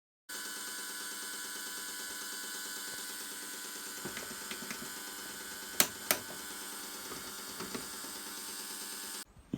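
A steady mechanical hum made of many fixed tones, with two sharp clicks about six seconds in.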